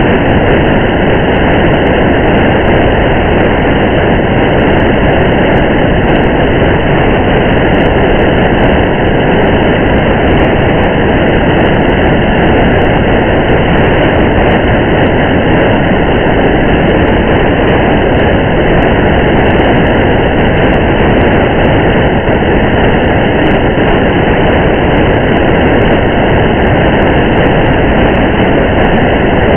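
Steady, unbroken noise of a car driving through rain: road and engine rumble with rain on the car, dull and without any high end.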